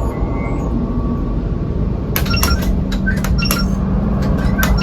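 Smuggler's Run motion-simulator cockpit effects: a deep, steady rumble. From about two seconds in, a run of sharp clicks and clinks joins it over a steady hum.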